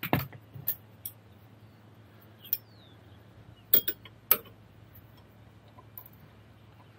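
Sharp metal clicks and clinks of hand tools, a wrench and an Allen key, working the nut of a front sway bar end link. There are about seven irregular strikes, the loudest at the very start and a close pair about four seconds in.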